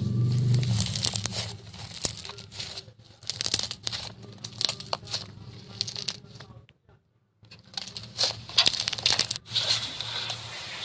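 Crunchy slime being squeezed and worked by hand, giving a dense run of crackles and pops, with a brief complete silence about seven seconds in.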